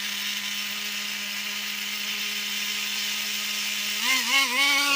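Traxxas Revo RC truck's small two-stroke nitro engine idling at a steady buzz during carburettor tuning. About four seconds in it revs up and down in a few quick throttle blips.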